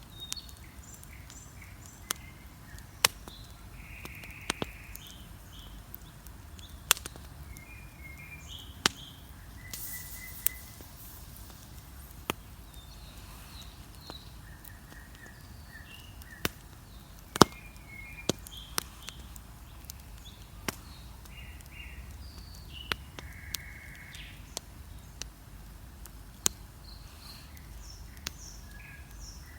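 Wood bonfire crackling, with sharp irregular pops every second or two over a low steady rumble. Songbirds chirp in short high notes throughout.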